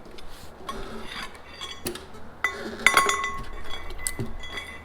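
Metal tools and parts clinking and clanking against one another in a series of sharp knocks. Several knocks leave a brief ringing tone, and the loudest cluster comes about three seconds in.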